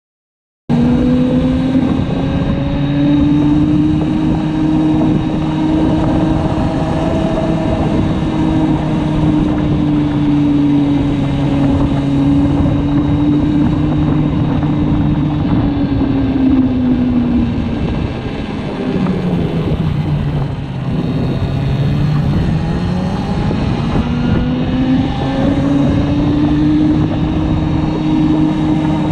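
Motorcycle running at a steady road speed, its pitch dropping for a few seconds past the middle as it slows and then rising again as it speeds back up.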